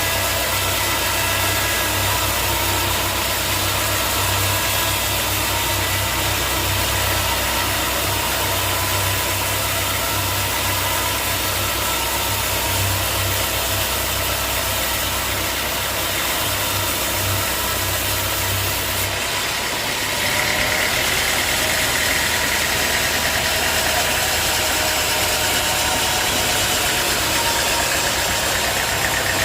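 Sawmill's engine running steadily, its sound changing about two-thirds of the way through.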